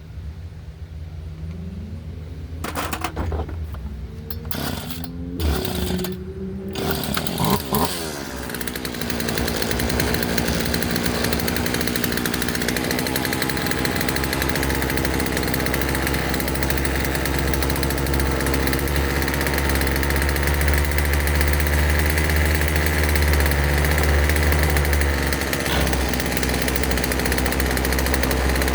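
Craftsman two-stroke chainsaw pull-started, sputtering over a few pulls and catching about eight seconds in, then idling steadily. It runs on its newly replaced fuel lines.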